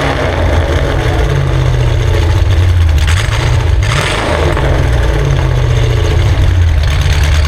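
LS3 6.2-litre V8 in a BMW E38 running through a valved exhaust with a deep steady note, getting louder and rougher for about a second starting around three seconds in and again near the end.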